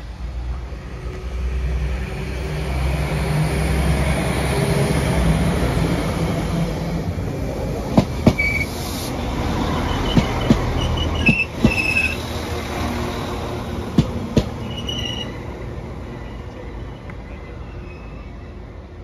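Northern class 195 diesel multiple unit passing along the platform. Its low rumble builds as it approaches, then pairs of sharp clacks come as the wheels cross rail joints, with a few short high wheel squeals. The sound fades as it draws away.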